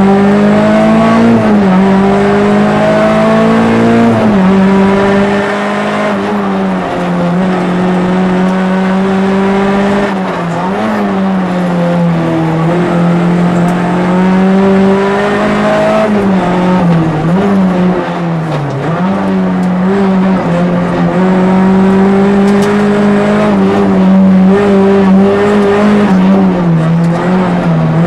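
Peugeot 206 RC's 2.0-litre four-cylinder engine at high revs under rally stage driving, heard from inside the cabin. Its note holds high and dips sharply several times for gear changes and braking into bends, then climbs again.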